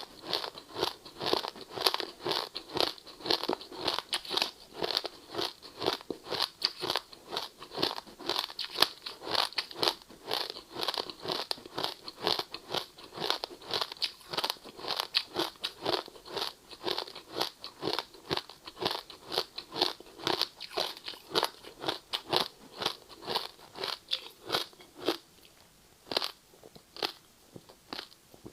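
Ice being bitten and chewed in rapid, close crunches, several a second. Near the end they thin out to a few separate crunches.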